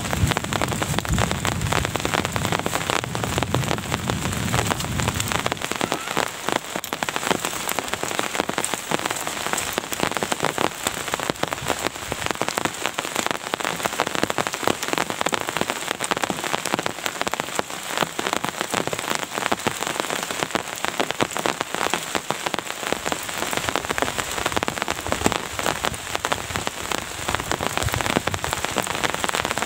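Steady, heavy rain, a dense crackle of individual drops striking a surface. A low rumble underlies the first five seconds or so, then fades.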